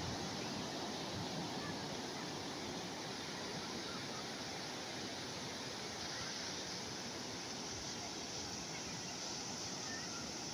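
Calm sea waves washing in a continuous, even hiss with no distinct surges.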